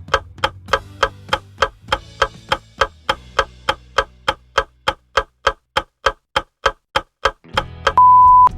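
Quiz countdown timer: a clock-ticking sound effect at about four ticks a second, with faint low background music under it that drops out about halfway. It ends in a loud, steady electronic beep of about half a second as time runs out.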